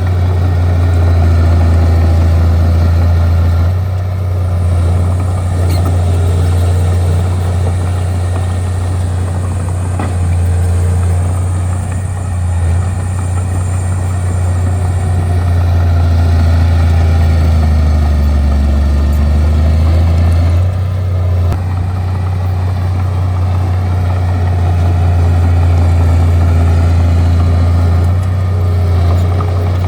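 Bulldozer's diesel engine running steadily with a strong low drone, its pitch sagging briefly past the middle and then recovering.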